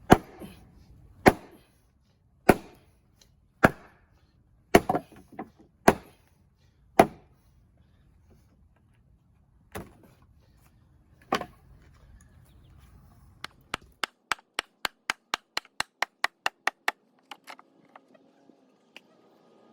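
Hammer blows on the wooden boards of an old step, knocking them loose: about a dozen heavy, separate strikes roughly a second apart. Near the end comes a quick, even run of about fifteen lighter taps.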